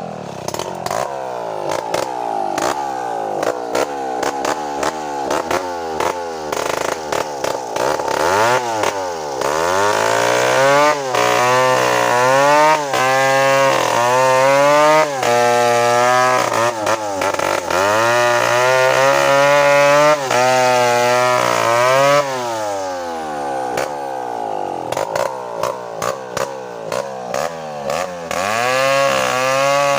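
Two-stroke chainsaw running hard, its pitch dropping and holding lower as it bogs under load for long stretches, briefly rising again when the load comes off, typical of cutting through a coconut trunk.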